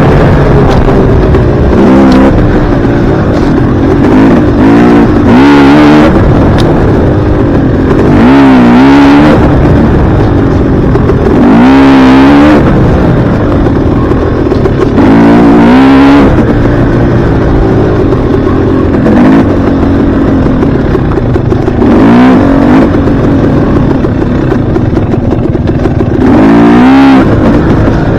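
Dirt bike engine under way, loud throughout, its pitch rising and falling again and again every few seconds as the throttle is opened and closed.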